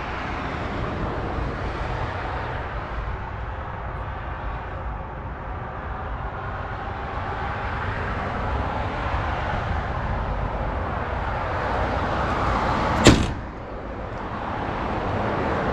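Steady low outdoor background rumble, then about thirteen seconds in a single sharp slam as the 1972 Chevrolet Corvette's hood is shut.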